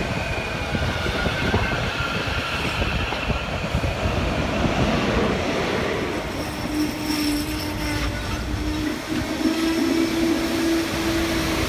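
SEPTA electric commuter train cars rolling slowly past at close range, wheels rumbling on the rails. About six seconds in, a steady whine joins and rises slightly in pitch toward the end.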